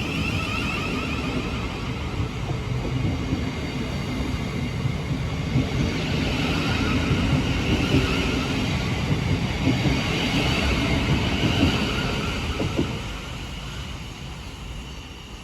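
Thameslink Class 700 electric multiple unit pulling out of the station, wheels rumbling on the rails with a whine from its motors. It grows louder through the middle, then fades away from about thirteen seconds in.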